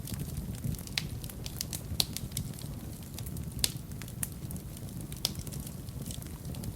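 Wood fire burning in a fireplace: a steady low rumble of the flames with irregular sharp crackles and pops, the loudest about 2 seconds in and again past the halfway mark.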